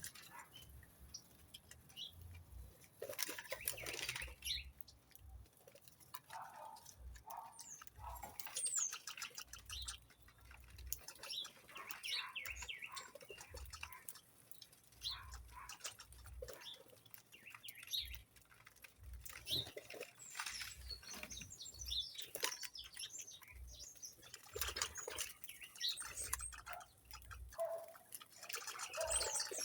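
A group of small birds chirping in short, scattered calls, with wings fluttering and irregular low thumps among them.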